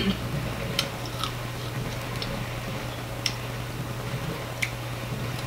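A person chewing a chicken wing close to the microphone: a few soft, scattered wet mouth clicks and smacks over a steady low hum.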